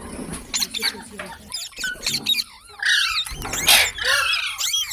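Parrot calling in quick rising and falling chirps and whistles, with a louder, harsh screech a little under four seconds in.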